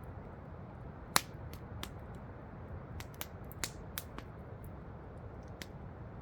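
Wood campfire crackling, with irregular sharp pops and one loud snap about a second in, over a steady rushing waterfall.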